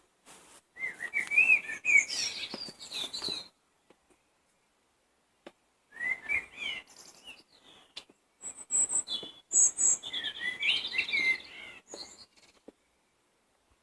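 A songbird singing in three short bursts of quick, twittering and warbling notes, separated by pauses of a couple of seconds.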